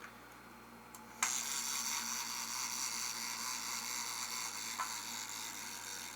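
Electronic sound effect from the 1999 Hess space shuttle toy's speaker: a steady hissing noise that starts suddenly about a second in and slowly fades near the end.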